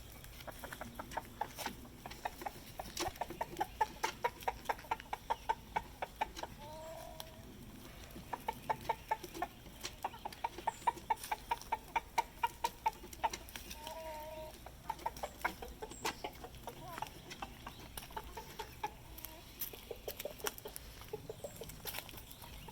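Chickens clucking as they are fed vegetable scraps: long runs of quick clucks, about four a second, with a couple of short higher calls in between.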